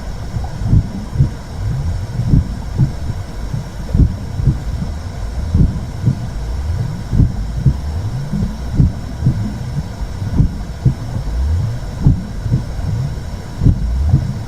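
Womb sound for calming a baby: a low, muffled rumbling whoosh with uneven pulses about twice a second, like blood flow and a heartbeat heard from inside the uterus.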